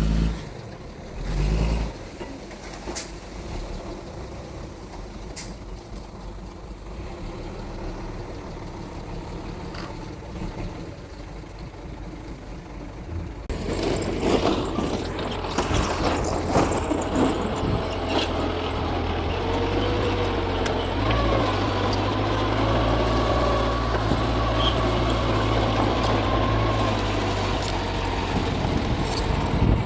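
Mitsubishi G2 bulldozer running under load. Its engine sound steps up sharply about halfway through and stays louder, with a wavering high squeal over it in the second half.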